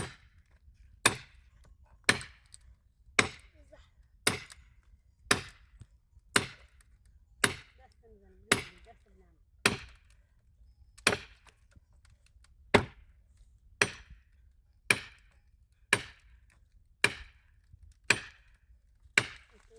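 Firewood being chopped: sharp strokes, one about every second, in a steady rhythm of around seventeen blows.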